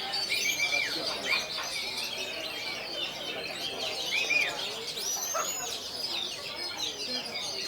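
Many oriental magpie-robins (kacer) singing over one another in a dense chorus of overlapping whistles and chirps, with a few louder, sharper notes standing out about a second in, about four seconds in, and a high whistle near five seconds.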